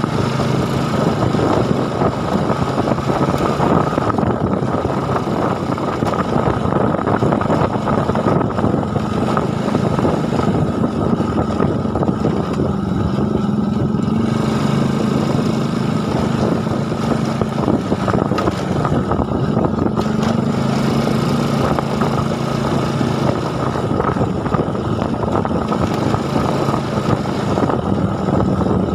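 A small engine running steadily, its pitch shifting slightly now and then, over a rough, rushing background.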